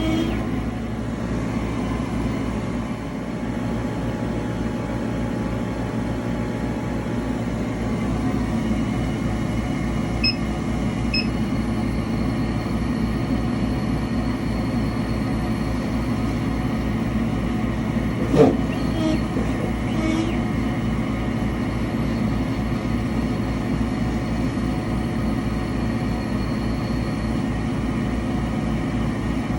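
Engraver running with a steady mechanical grinding noise, the fault being shown. A single sharp click about 18 seconds in.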